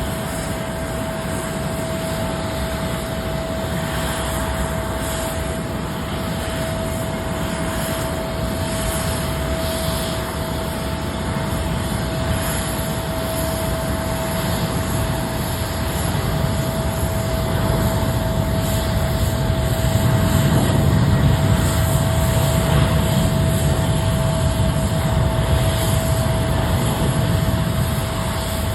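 Jet airliner engines running, a continuous low rushing noise with a steady high whine; it grows louder about two-thirds of the way through, then eases near the end.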